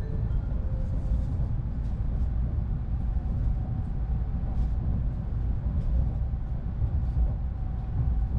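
Cabin noise of an N700S Shinkansen bullet train in motion, heard from inside the passenger car: a steady low rumble from the wheels and running gear, with faint scattered ticks. A faint steady hum joins in a few seconds in.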